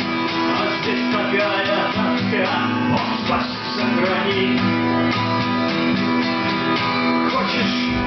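Acoustic guitars strumming chords in a live song, with a voice singing briefly in the middle and again near the end.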